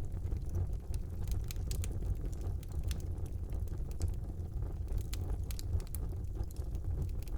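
Fire burning in a fireplace: a steady low rumble of flames with scattered sharp crackles and pops, several a second.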